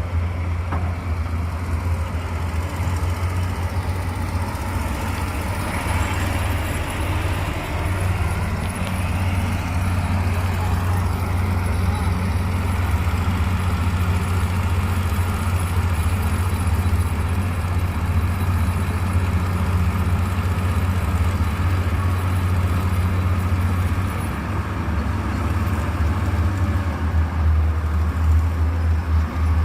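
Engine of heavy road-construction machinery running steadily with a deep, even rumble, a little louder near the end.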